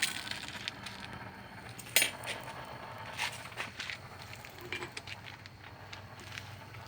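Scattered metallic clinks and taps of steel blacksmithing tools and a workpiece being handled at a forge, the sharpest about two seconds and three seconds in, over a low steady hum.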